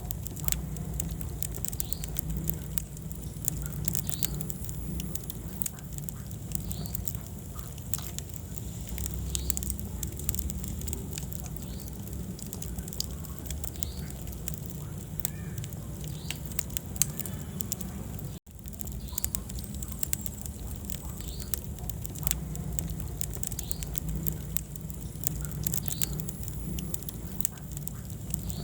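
Wood fire burning in a fireplace: frequent sharp crackles and pops over a steady low rumble of the flames. The sound cuts out for an instant about two-thirds of the way through.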